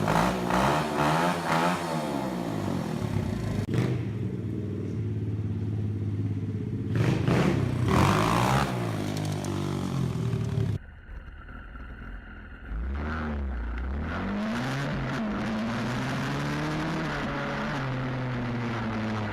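Stomp WPB 125 pit bike's single-cylinder four-stroke engine being ridden, revving up and down again and again as it is throttled and shifted. About eleven seconds in the engine sound drops away for about two seconds, then comes back.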